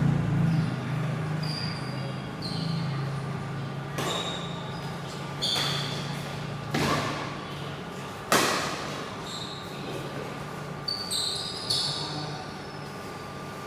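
Badminton play: a few sharp racket hits on the shuttlecock, one to two seconds apart, mixed with short high squeaks of shoes on the court floor.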